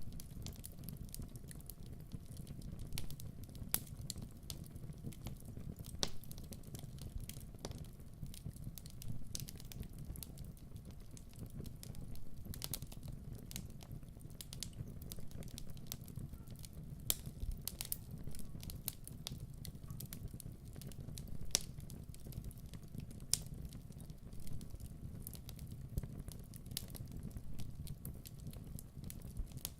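Wood fire burning: a steady low rush with frequent irregular crackles and sharp pops.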